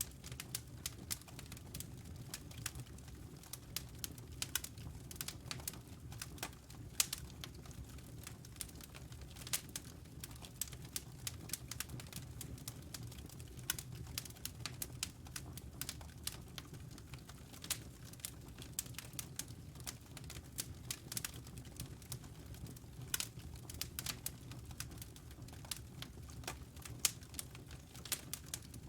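Wood fire crackling in a fireplace: irregular sharp snaps and pops from the burning logs, some louder than others, over a steady low rumble of the flames.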